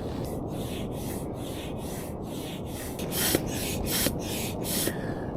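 Air pump inflating a blow-up tent: a regular series of short hissing strokes, about three a second, over a steady low rumble of wind.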